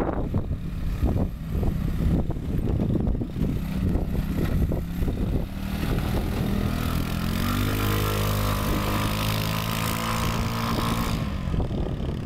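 Kymco 250cc liquid-cooled single-cylinder four-stroke engine of a PGO Quadzilla buggy, running low and uneven at first. About halfway in it revs up steadily, the CVT letting the revs climb and then hold high, before they drop off suddenly near the end.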